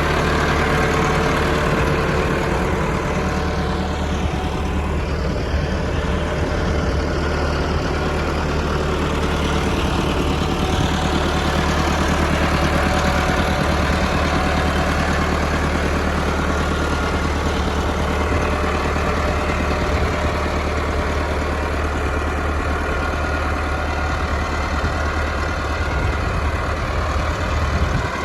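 Farm tractor's engine running steadily with a heavy, low hum.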